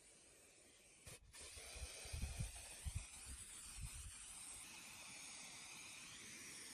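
Faint steady hiss that starts about a second in, with a few soft low thumps in the first half.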